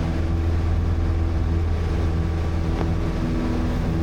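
Light airplane's engine and propeller droning steadily in the cabin at climb power, a low even hum with a few steady tones above it.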